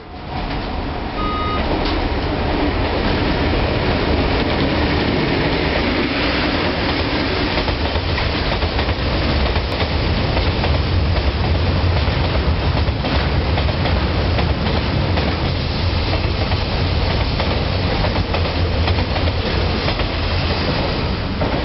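Freight train hauled by a DF4B diesel-electric locomotive passing close by: a loud, steady low rumble of the engine and a long string of covered wagons rolling over the rails.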